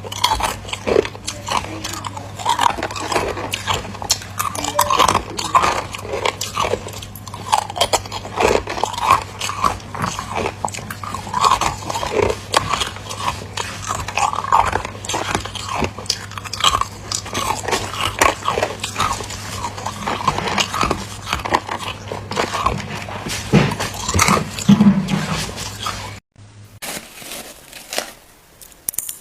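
A person biting and chewing ice close to the microphone: dense, irregular crunching and crackling. A steady low electrical hum underneath stops abruptly near the end, where the crunches go quieter.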